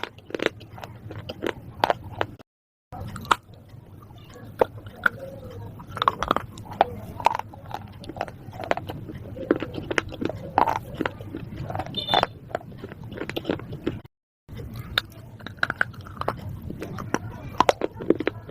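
A person biting and chewing something hard and crunchy, with many sharp, irregular crunches. The sound drops out to dead silence twice, briefly, about two and a half seconds in and again near fourteen seconds.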